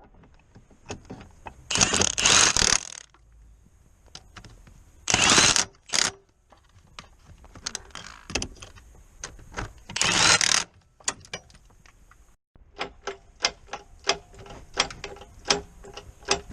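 Mechanic's tools at work on a car: several loud, short hissing bursts, then a run of quick metallic clicks, about three or four a second.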